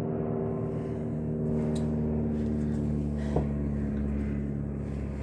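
Electric motor running with a steady, even hum made of many tones, with a single sharp click about three and a half seconds in.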